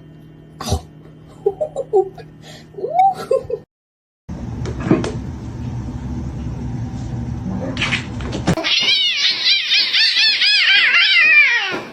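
A cat meowing and yowling: a few short mews in the first few seconds, then, from about nine seconds in, a loud, rapidly wavering yowl that runs for about three seconds.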